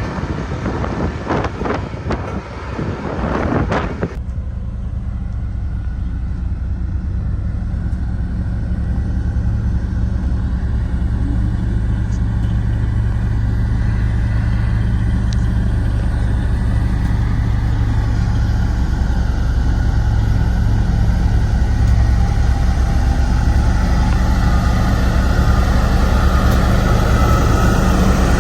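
Diesel engine of a Sakai road roller running steadily, its low hum slowly growing louder. The first four seconds hold rough, wind-like noise that cuts off abruptly.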